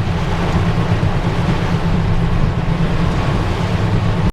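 Car driving through heavy rain: steady rain noise on the body and glass over the low drone of tyres and engine.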